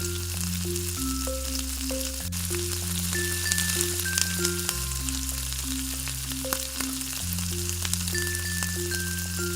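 Chicken nuggets frying in hot oil: a steady sizzle with frequent sharp crackles. Background music runs underneath, a melody of short notes over a steady bass line.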